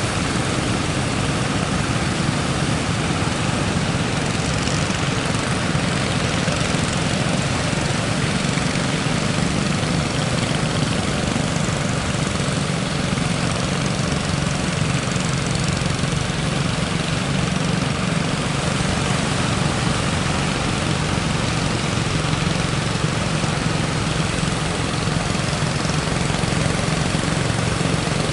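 Fishing boat engine running steadily over the constant wash of breaking waves.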